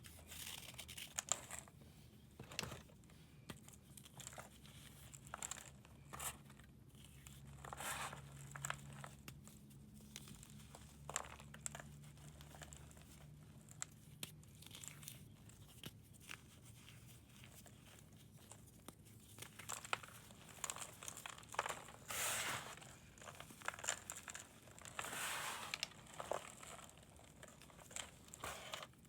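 Blocks of pressed powder being crumbled and scraped by hand: irregular crisp crunches and crackles, with a couple of longer scraping passes near the end.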